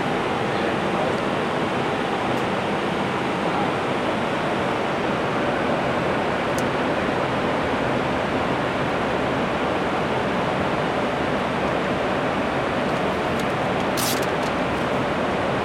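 Steady rushing noise inside an Airbus A321 cockpit: airflow around the airliner and its ventilation, even throughout, with a brief high hiss about fourteen seconds in.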